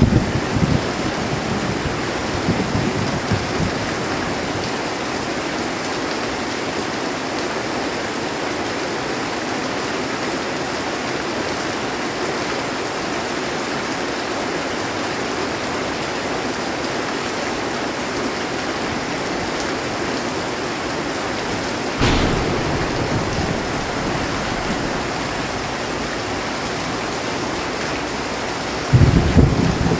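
Heavy rain falling steadily on a metal roof, with thunder: a rumble fading away at the start, a sudden clap about three-quarters of the way in that rumbles on for a couple of seconds, and another loud rumble starting near the end.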